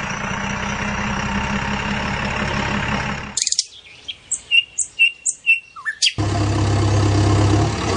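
Tractor engine running steadily; about three and a half seconds in it cuts off abruptly to a few seconds of birds chirping, a string of short high chirps, then the engine comes back suddenly with a deeper, louder hum.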